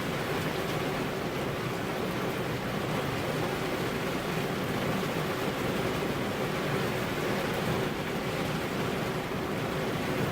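Steady rain heard as an even, unbroken hiss, with no distinct drops or thunder standing out.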